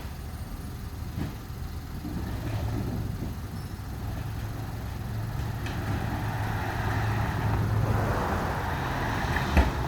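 Garbage truck engine running close by. Its hum strengthens about two seconds in and holds steady for several seconds, and a sharp thump comes near the end.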